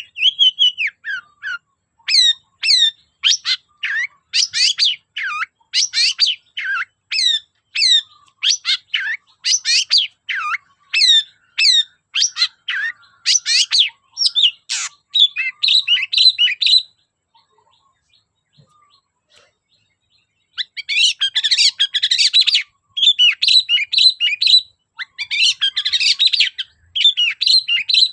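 Long-tailed shrike (cendet) singing: a run of sharp, repeated notes about two a second, a pause of about three seconds, then a denser, faster chattering run.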